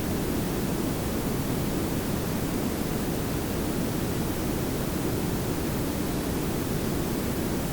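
Layered pink and brown noise: a steady, even hiss over a low rumble, unchanging throughout.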